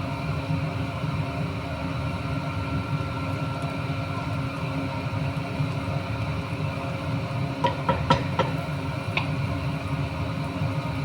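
Steady low hum of a small motor or fan, with a quick run of light clinks about two-thirds of the way through and one more shortly after.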